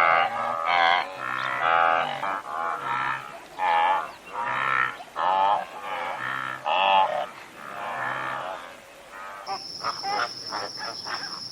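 Repeated animal calls, short wavering cries about one a second. Near the end they cut to a steady high-pitched chirring with rapid ticks, like an insect.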